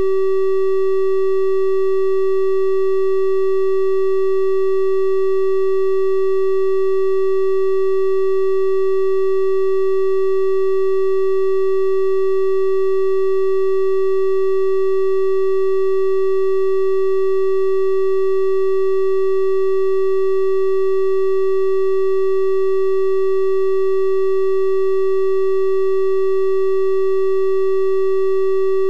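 A steady 384 Hz triangle-wave tone, held at one pitch and level, with its soft odd overtones.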